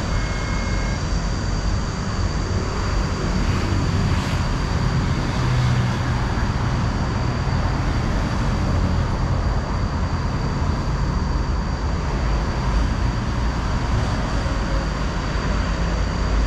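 Steady road traffic noise with heavy vehicle engines running, strongest in the low end.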